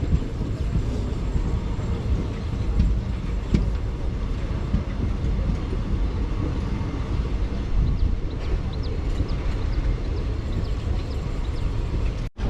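Passenger train running on the rails: a steady low rumble and rattle with scattered knocks, and a few faint short high squeaks about eight to ten seconds in.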